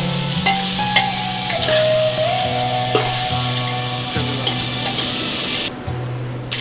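Sliced onions and spices sizzling as they fry in oil in an aluminium pressure cooker, with a metal ladle stirring and scraping against the pot in scattered clicks. The sizzle drops out briefly near the end.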